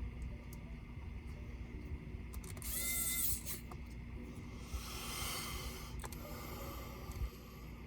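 Laptop parts and small tools being handled: a few sharp clicks, a short squeak about three seconds in, and a scraping slide around five seconds in.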